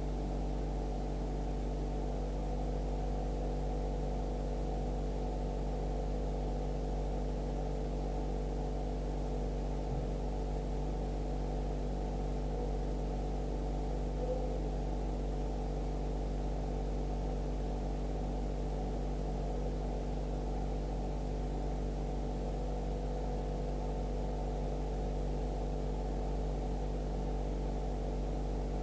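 Steady low hum made of several held tones, with no changes or separate events.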